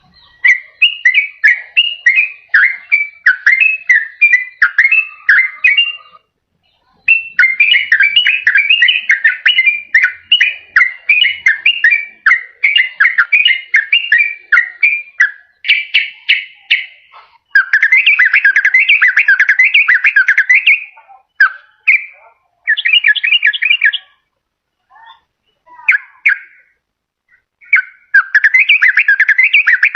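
Sooty-headed bulbul (trucukan) singing long runs of rapid whistled notes, broken by a short pause about a fifth of the way in and by several brief gaps in the later part.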